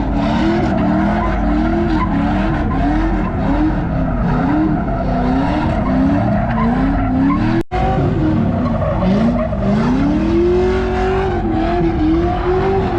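A car engine revving up and down over and over while the tyres squeal and skid, as in donuts or a burnout. The sound cuts out for an instant a little past halfway, then one longer rev climbs and holds.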